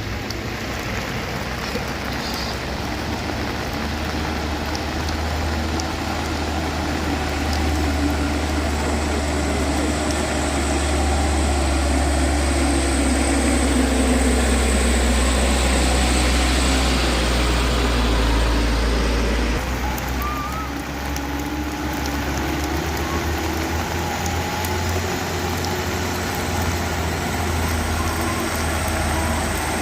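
Heavy vehicle engine running with a low rumble, growing louder for about eighteen seconds, then dropping back.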